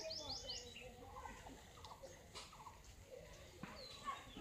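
Birds chirping faintly: a quick run of high, falling chirps at the start, then scattered short calls.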